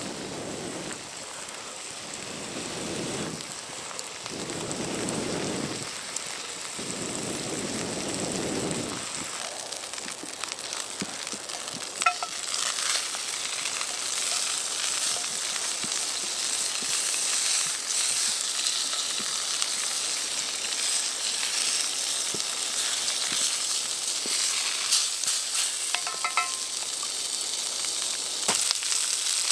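Food sizzling in a pan over a campfire, the sizzle rising and staying steady from about nine seconds in. Before that come several soft, lower swooshing swells.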